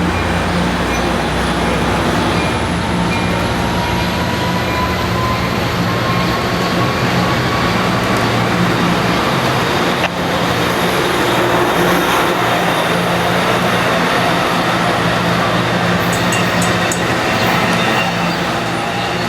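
Pacific Surfliner diesel locomotive running loudly, a steady low engine drone under rail noise, with a faint whine that slowly rises in pitch through the first half.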